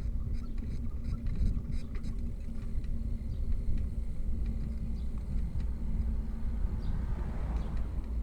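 Steady low rumble of wind and road noise while riding a bicycle, with light clicks early on and a rushing noise that swells and fades near the end, like a vehicle passing.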